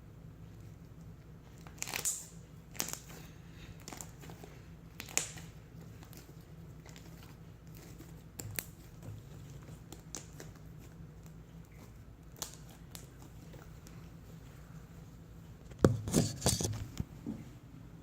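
Homemade slime being handled: scattered short sticky crackles and pops every few seconds, with a louder flurry of them near the end.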